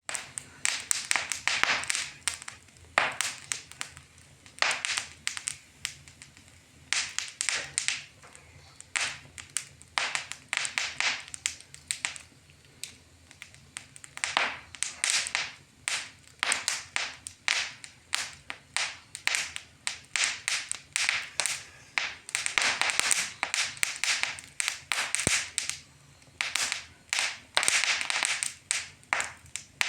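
Wood fire burning in a fireplace, crackling with irregular pops and sharp snaps that come in quick clusters.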